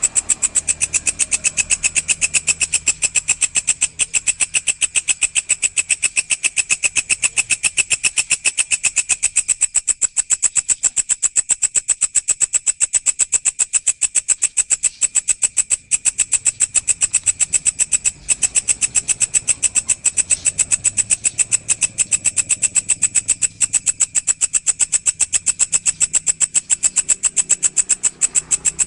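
A walang (grasshopper) singing: a continuous, high-pitched, rapid and even buzzing trill of many pulses a second.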